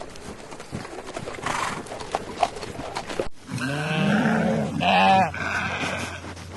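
Scattered clicks and knocks, like hooves, then after an abrupt cut a farm animal calls loudly in several bending, bleat-like cries.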